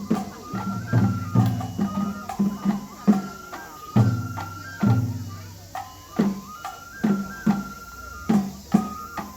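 Japanese festival hayashi for a lion dance: taiko drum strokes, several a second in an uneven rhythm, under a high bamboo flute melody stepping between a few held notes.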